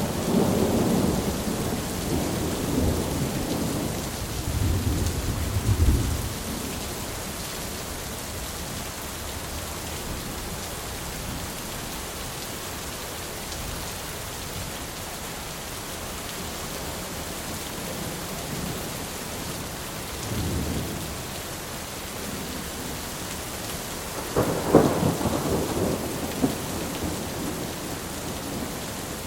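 Steady rain with thunder: rolling rumbles through the first six seconds, a brief rumble about 20 seconds in, and a louder, sharper thunderclap rumbling off about 25 seconds in.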